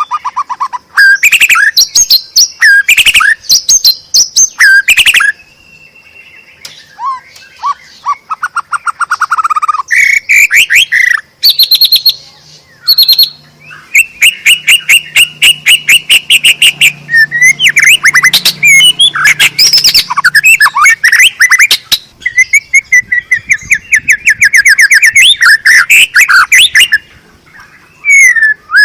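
White-rumped shama singing vigorously: loud, varied phrases of rapid trills and clear whistled notes, broken by short pauses.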